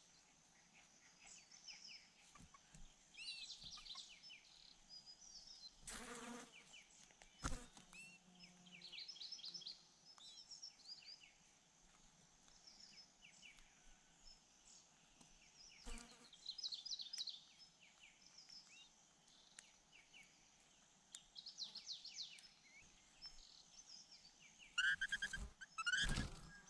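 Small birds at a nest giving short runs of quick, high chirps every few seconds, loudest near the end, with a few sharp knocks and faint buzzing of flies.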